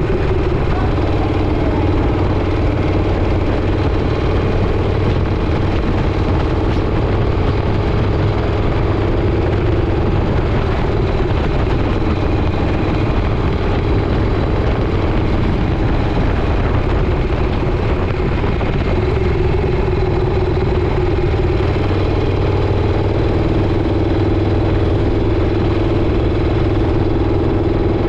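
Motorcycle engine running steadily at cruising speed on the highway, with a constant rush of wind and road noise.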